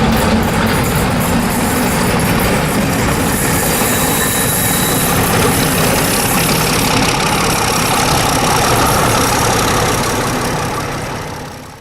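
Class 31 diesel locomotive's English Electric V12 engine idling steadily, with no thrash. The sound fades out in the last second.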